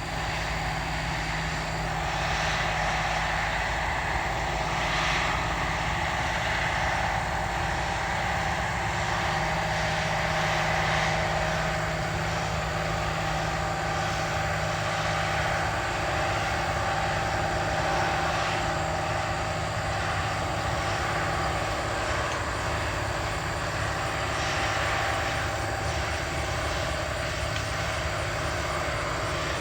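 A steady engine drone, holding a few constant tones over a low, even rumble, with no change in speed.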